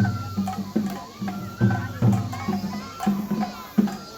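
Japanese festival hayashi music for a lion dance: drum strikes about two a second over a high held melody line that steps up and down in pitch.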